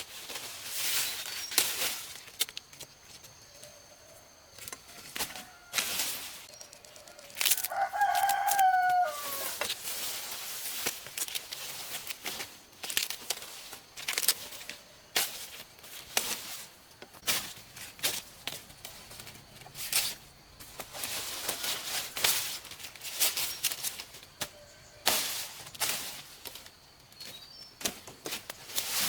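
A rooster crows once, about eight seconds in, a call of about two seconds that falls in pitch at the end. Repeated short rustling and snapping noises come and go around it.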